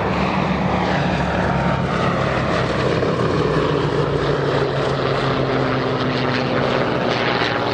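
Propeller-driven warbird's piston engines running with a steady drone, their pitch shifting slightly.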